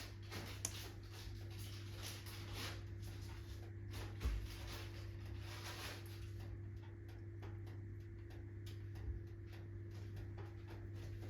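Wood fire of alder, birch and oak logs crackling in a fireplace, with irregular snaps and a louder pop about four seconds in, over a soft hiss that fades after about six seconds. A steady low hum runs underneath.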